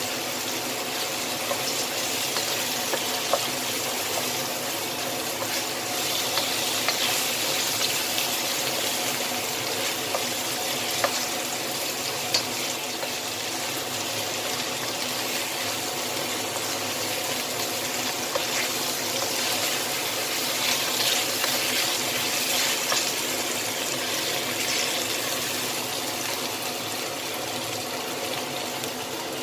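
Chicken wings sizzling in hot oil in a wok, a steady hiss, with a few sharp clicks of the wooden spatula against the pan.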